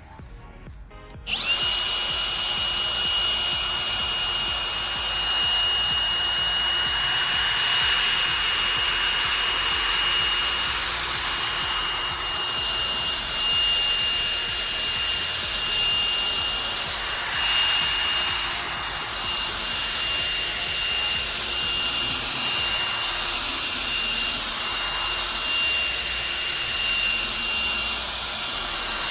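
Power drill spinning a polishing pad loaded with compound against a headlight lens. It starts abruptly about a second in and runs steadily with a high motor whine.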